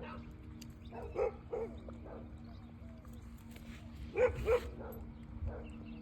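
A dog whining and yipping in short pitched calls, two pairs of them, about a second in and again about four seconds in, over a faint steady hum.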